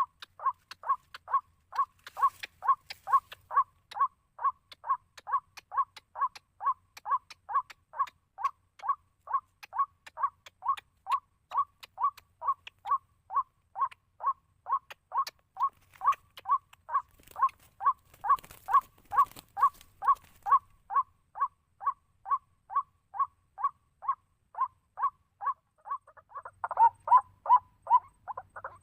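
White-breasted waterhen call played as a lure: one short note repeated very evenly, about twice a second. There is a brief rustle about two-thirds of the way in, and the calls grow denser and overlap near the end.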